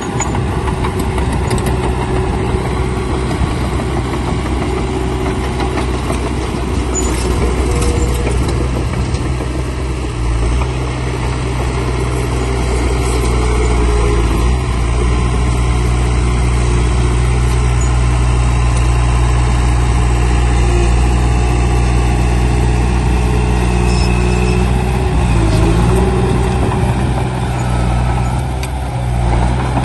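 Heavy diesel machine engine running steadily, with brief dips in engine speed about a third of the way through and again near the end.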